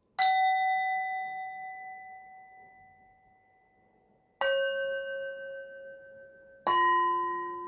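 Three struck metal chimes, each ringing out and slowly fading. The first comes at the start, the second about four seconds later and the third two seconds after that, each lower in pitch than the last.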